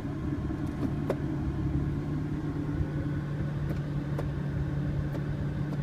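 BMW M4's 3-litre twin-turbo inline-six idling steadily, heard from inside the cabin, with a few faint clicks as the gear selector lever is moved.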